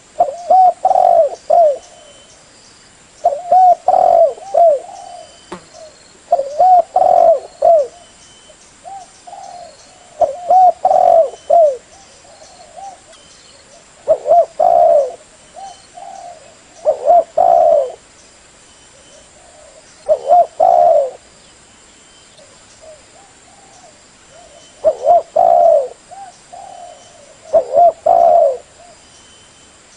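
Spotted dove (terkukur) cooing: loud phrases of several short, bending low coos, repeated about every two to three seconds, with a longer pause a little past the middle.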